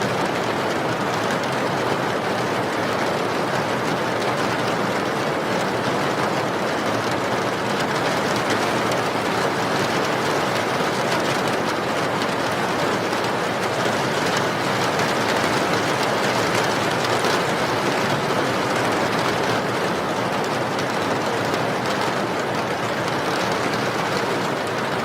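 Steady rain, an even rushing hiss without breaks or single drops standing out.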